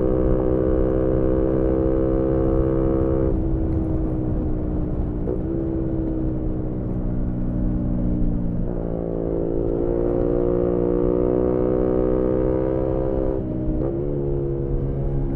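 Yamaha MT-125's single-cylinder four-stroke engine through an aftermarket GPR exhaust, heard onboard while riding, running at steady revs. The engine note drops a little past three seconds in, climbs again at about eight and a half seconds, and drops once more near the end.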